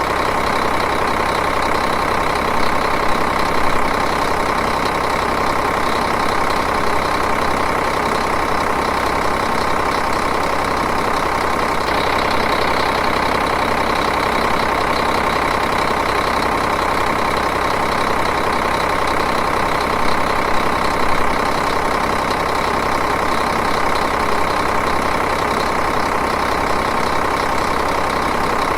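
Diesel engine idling steadily, with an even, fast clatter.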